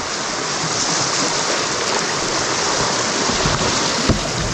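Whitewater of a river rapid rushing steadily around a canoe, with a single low thump about four seconds in.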